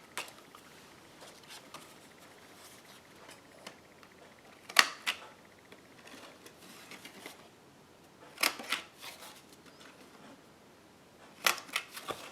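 Handheld corner rounder punch snapping as it rounds the corners of a cardstock card base: three pairs of sharp clicks, a few seconds apart.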